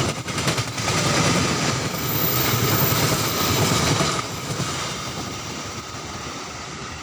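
Sancaka passenger train rolling past, its wheels clacking over rail joints, with a thin steady whine until about four seconds in. The sound then fades as the train moves away.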